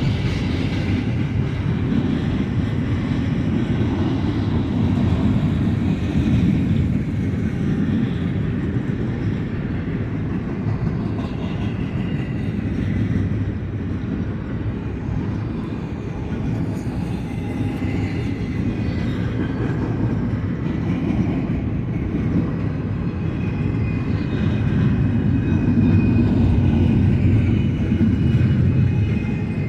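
Double-stack container cars of a freight train rolling past on the main line: a steady rumble of steel wheels on rail that eases a little midway and swells again near the end.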